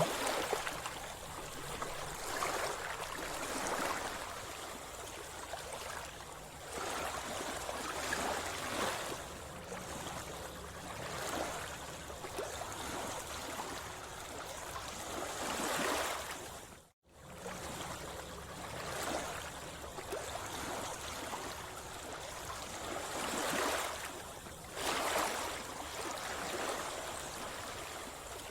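Sea water sloshing and splashing close by, swelling and easing in uneven surges every few seconds. The sound cuts out for an instant about two-thirds of the way through.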